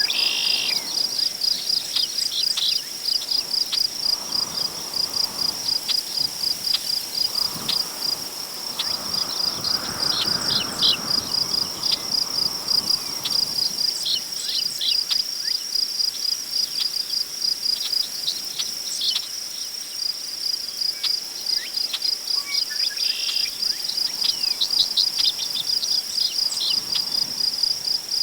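Crickets chirping in a steady, high, pulsing chorus, with scattered short bird calls over it. Wind gusts rustle through tall prairie grass, swelling strongest about ten seconds in.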